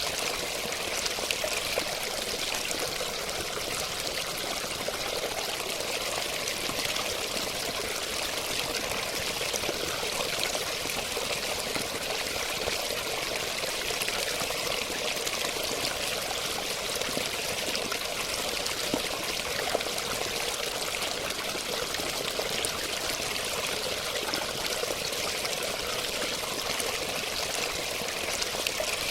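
Flowing water, a steady stream or small fall splashing and gurgling without let-up.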